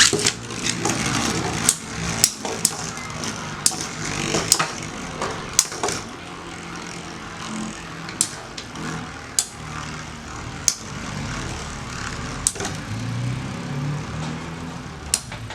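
Metal Fight Beyblade spinning tops whirring and clashing in a stadium: a steady whir with sharp clicking hits, frequent for the first six seconds or so, then sparser.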